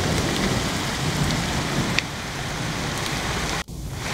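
Heavy rain falling in a steady hiss, with a few sharp drop ticks; the sound drops out for a moment near the end.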